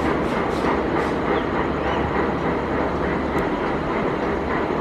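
HXD1C electric locomotive hauling a container freight train, a steady rumble as it runs along the line.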